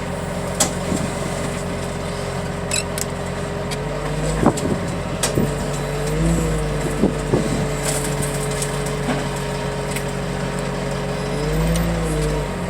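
Heavy loading machine's engine running steadily, rising in pitch briefly three times as it revs under hydraulic load, with a few sharp clanks.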